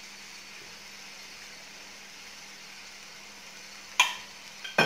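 Onion-tomato masala sautéing in sesame oil in a kadai, sizzling with a steady even hiss over a faint low hum. Two sharp knocks come near the end.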